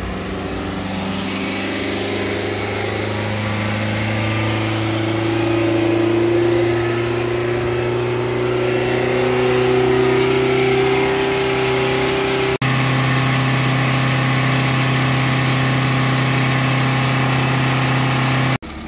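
Ford Focus Mk2's diesel engine held at high revs by a forced static regeneration of its clogged diesel particulate filter, the pitch climbing slowly over the first dozen seconds and then holding steady. The sound breaks off for an instant twice.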